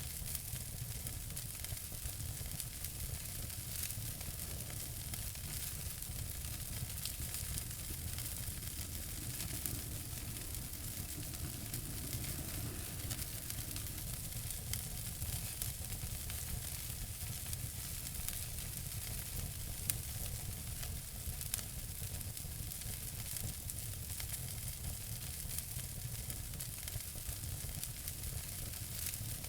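Wood fire burning in a fireplace: steady hiss and low rumble with frequent small crackles and pops, one slightly louder pop about twenty seconds in.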